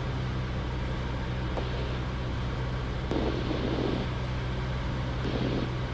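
Cessna 172's piston engine and propeller droning steadily, heard from inside the cockpit, on short final to landing.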